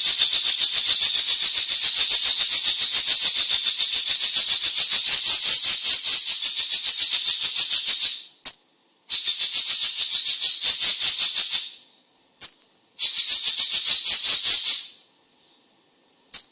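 Cucak cungkok giving a loud, fast, dry rattling trill, high-pitched and hissy: one long run of about eight seconds, then two shorter runs of two to three seconds each, with a brief high note just before each new run.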